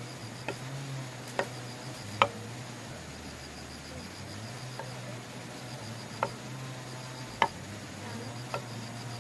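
Insects trilling steadily over a low hum, with six sharp, irregular knocks; the loudest comes a little over two seconds in.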